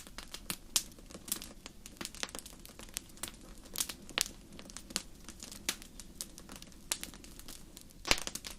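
Wood fire in a fireplace crackling, with irregular sharp pops over a low steady hiss; one louder pop near the end.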